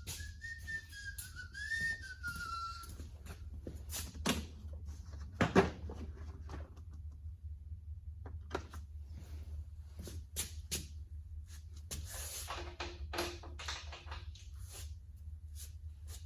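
A person whistles a short wavering tune for about three seconds, then scattered clinks and knocks of work follow, the loudest about five seconds in, over a steady low hum.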